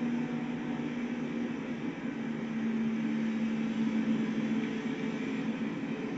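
Freight train rolling past a road crossing: a steady rumble and hiss with a low hum underneath.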